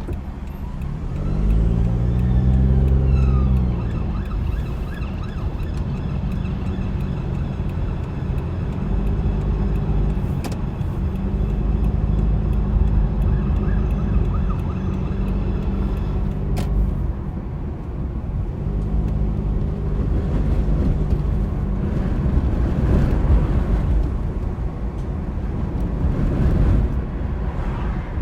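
Car engine and tyre/road noise while driving, the engine note rising as the car accelerates about two seconds in, then running at a steady pitch with a few rises and falls as speed changes.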